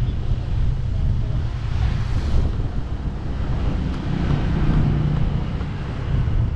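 Wind buffeting the microphone of a riding motorcycle, a steady low rumble, with the motorcycle's engine running underneath.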